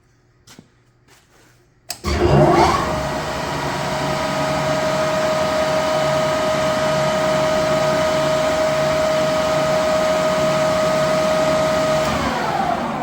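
Standard Modern 1640 tool room lathe, driven by a 10 hp three-phase motor, started at high spindle speed. After a few light clicks and a sharp click about two seconds in, it spins up with a rising whine and runs steadily with a strong gear whine. Near the end it is switched off, and its pitch falls as the spindle coasts down.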